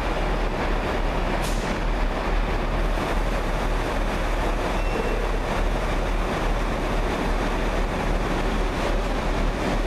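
Electric multiple unit running slowly along the platform: a steady, even noise of the train's running gear and wheels on the rails, with a brief click about one and a half seconds in.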